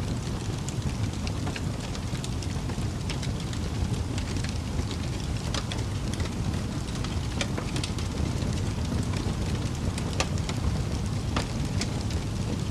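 Wood fire burning in a fireplace, with a low, steady rumble and frequent irregular sharp crackles and pops.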